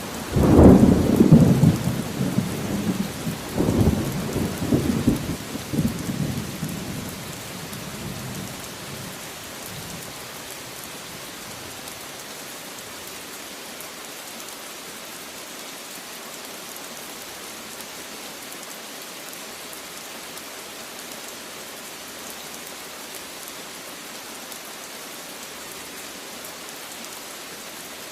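Steady rainfall with a roll of thunder. A loud low rumble rises at the start, swells again about four seconds in, and dies away by about ten seconds, leaving the even hiss of the rain.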